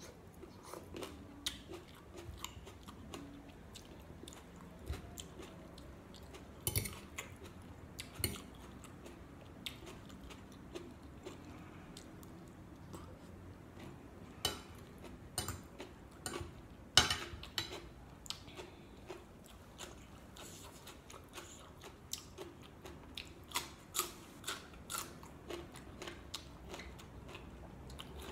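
Close-up mouth sounds of a person chewing spicy glass noodle salad with boneless chicken feet: soft, irregular wet clicks and crunches from the chewy cartilage and noodles. One sharper, louder click comes about two-thirds of the way through.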